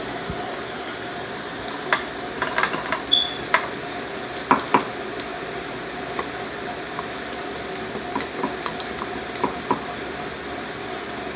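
A spoon taps and scrapes against a plate in irregular clicks as glue and slime activator are stirred together, over a steady background hum. There is one brief high squeak about three seconds in.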